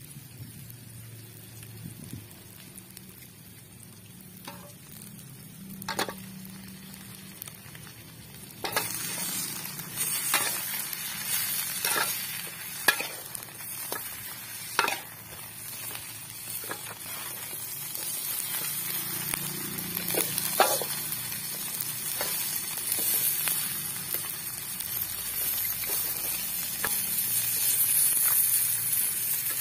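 Chopped chillies, shallots and garlic frying in oil in an aluminium wok over a wood fire, with a metal spoon stirring and knocking against the pan. About nine seconds in the sizzle suddenly gets much louder and stays that way, with manyung fish heads now frying in the wok, and it builds further toward the end.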